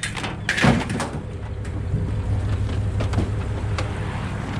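A vehicle engine idling steadily, with a louder short sound about half a second in and a few brief knocks.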